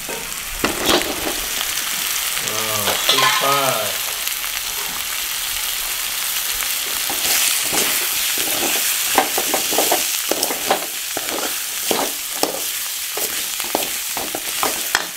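Chicken liver and gizzard pieces frying in hot oil and masala in a metal kadai, with a steady sizzle. A metal ladle stirs them, scraping and clicking against the pan more and more through the second half.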